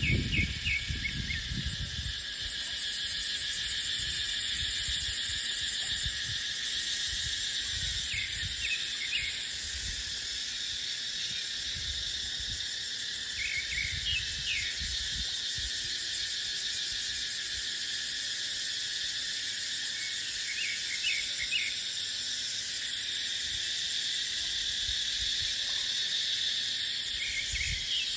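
Cicadas droning in a steady, high, even buzz, with wind gusting low against the microphone now and then. A bird gives short clusters of chirps about five times, spaced several seconds apart.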